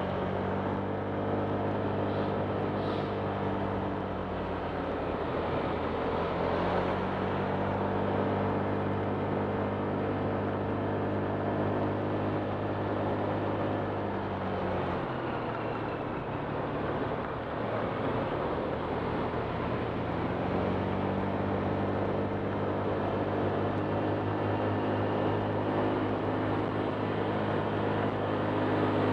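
Honda Click 125 scooter's single-cylinder four-stroke engine running under way. Its note drops as the throttle eases off about halfway through, then picks back up about two-thirds of the way in.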